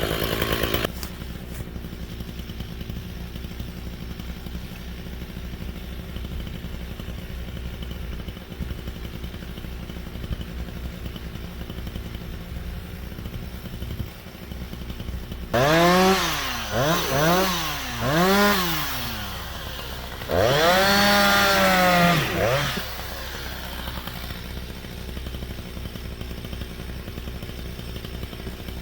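Two-stroke chainsaw idling, revved in three quick blips and then held at high revs for about two seconds before dropping back to idle. The saw runs at high revs for the first second as well.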